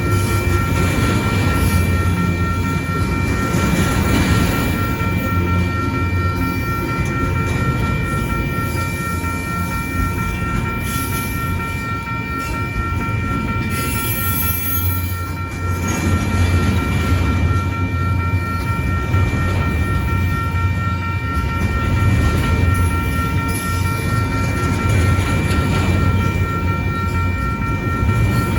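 A train passing a railroad grade crossing: a steady low running noise from the train, with several steady high tones held over it throughout.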